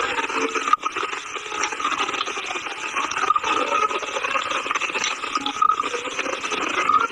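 A person crunching and chewing a hard, chalky mineral snack, a dense gritty crunch with many small crackles and no pause.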